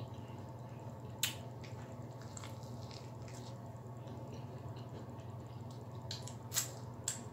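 Eating fried chicken wings: chewing with wet mouth clicks and lip smacks, a sharp click a little over a second in and a few more near the end, over a steady low hum.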